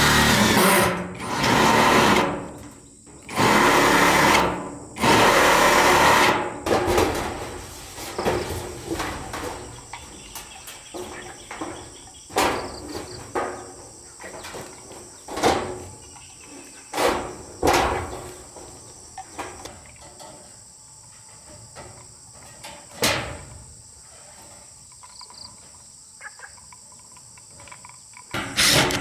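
Building work with tools: four loud one-to-two-second bursts of noise in the first few seconds, then scattered sharp knocks, over a steady high-pitched insect drone.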